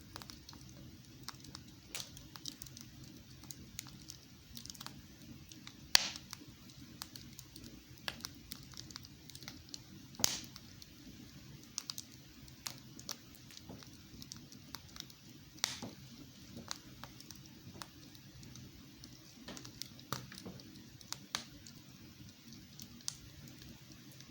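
Wood fire burning in a fireplace, crackling with irregular sharp pops, the loudest about six and ten seconds in, over a faint steady low hum.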